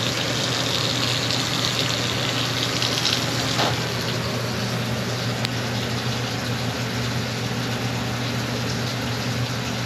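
Powered drain-cleaning machine running steadily during a main-line snaking job: a constant motor hum under a rushing hiss.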